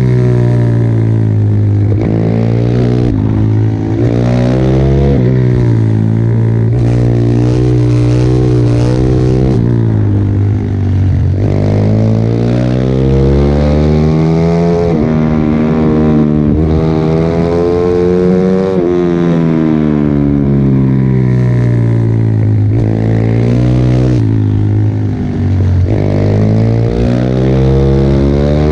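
Pit bike engine at racing revs, its pitch climbing and dropping again and again as the rider accelerates, shifts and backs off for corners.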